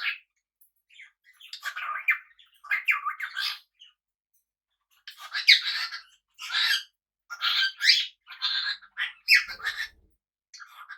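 Small pet parrots squawking and chattering in quick bursts of short calls, with a pause about four seconds in before a longer run of calling.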